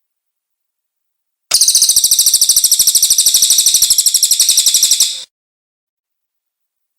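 A cililin bird singing one loud, high-pitched rapid trill of evenly repeated notes, starting about a second and a half in and stopping abruptly after nearly four seconds.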